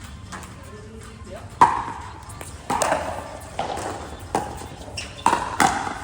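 Pickleball rally: paddles striking the plastic ball with sharp pocks, about six hits roughly a second apart, the last two close together.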